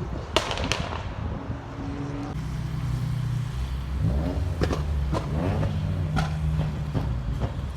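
Car engines running, with one revving up about four seconds in, and several short sharp cracks.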